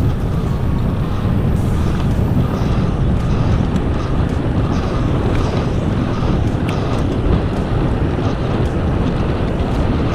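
Steady wind rushing over the microphone of a rider cycling along a road, a constant low rumble with no breaks.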